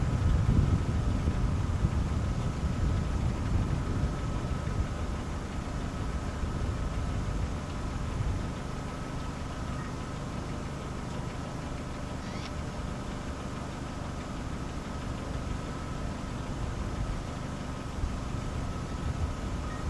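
Rolling thunder rumbling, loudest in the first couple of seconds and fading away over about eight seconds into a steady low background hum.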